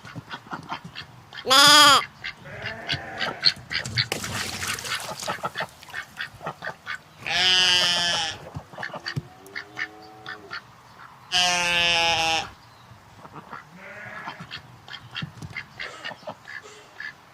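Goats bleating. There is a short call about two seconds in, then two longer, wavering bleats, with fainter calls and scattered clicks and taps between.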